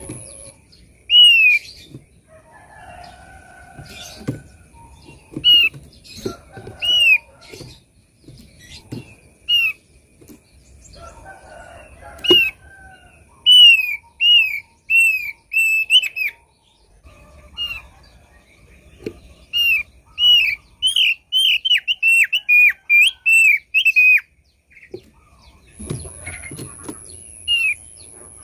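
Thick-billed white-eye calling: short, clear down-slurred whistled notes, given singly at first, then a quick run of about a dozen notes a little over twenty seconds in. Faint low clicks can be heard underneath.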